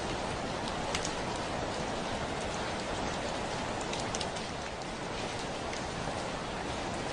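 Heavy rain falling steadily on a window, with scattered single drops ticking sharply against the glass.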